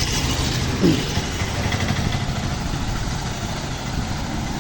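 Steady road-traffic and engine noise, with a short falling voice-like sound about a second in.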